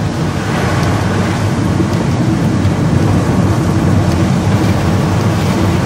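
Steady rumble of a car driving on a gravel road, heard from inside the cabin: tyres crunching over gravel under the engine noise.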